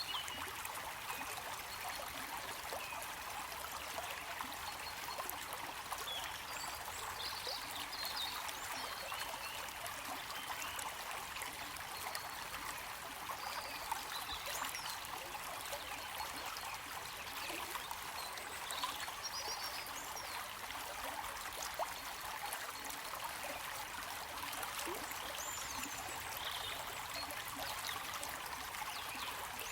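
Running water of a stream, flowing and trickling steadily.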